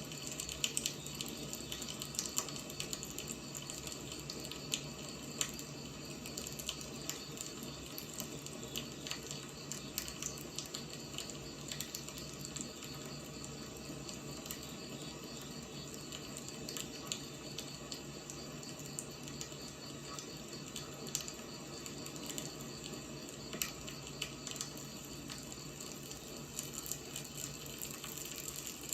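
Wood fire crackling: a steady hiss with frequent irregular small pops and snaps of burning firewood.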